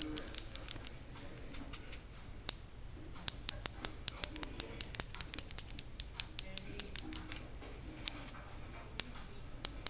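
Rapid light tapping, several sharp clicks a second in short runs with brief pauses, as a cosmetic brush loaded with activated charcoal powder is tapped to dust a thin layer onto the top of a freshly poured soap loaf.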